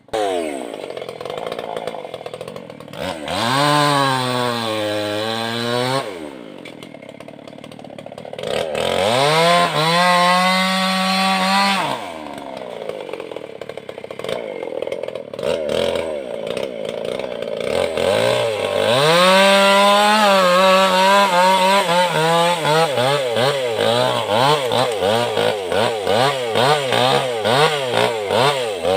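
Maestro two-stroke chainsaw revving up and dropping back twice, running lower and steadier for a few seconds, then held at high revs with a rapid waver in pitch and loudness, as when it is cutting wood.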